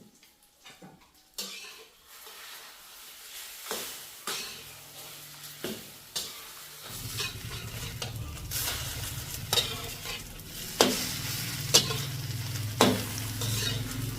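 Wild boar fat sizzling as it renders into lard in a pan, stirred with a utensil that knocks and scrapes against the pan several times. A low steady rumble comes in about halfway through.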